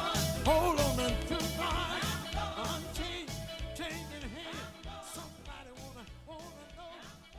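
Gospel song with singing over a band and a steady beat, fading out steadily to the end of the track.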